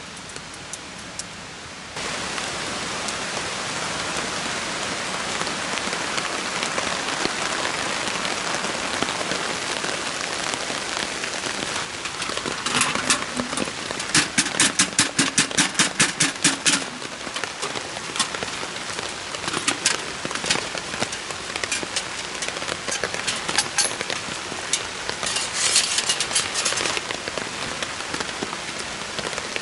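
Food frying in hot oil, a steady sizzle, with runs of quick clicks in the middle and near the end.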